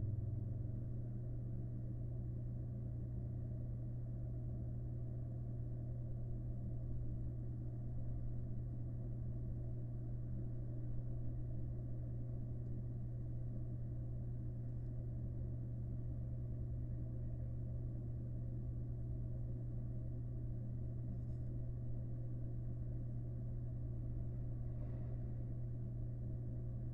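Steady low electrical hum with a faint hiss: the background noise of a nest-box camera's microphone. Two faint short sounds come in the second half.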